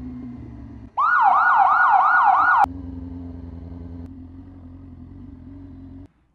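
Police siren in a fast yelp, rapid rising sweeps about three a second, sounding loudly for about a second and a half before cutting off abruptly. Before and after it a low steady engine rumble with a hum runs, and it stops suddenly near the end.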